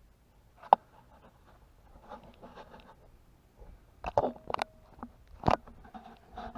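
Several sharp clicks and knocks with faint rustling between them; the loudest click comes just under a second in, and a cluster follows about four to five and a half seconds in.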